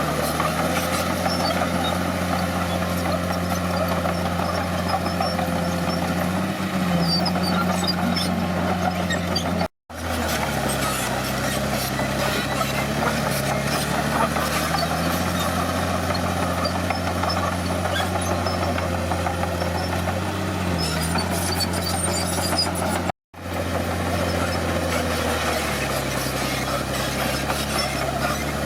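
Crawler bulldozer's diesel engine running steadily, its pitch shifting slightly a few times. The sound cuts to silence for an instant twice, about ten seconds in and again a few seconds before the end.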